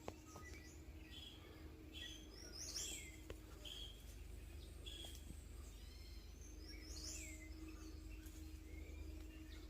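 Faint birdsong: small birds giving repeated short chirps and arching, downward-sweeping calls, over a low steady hum.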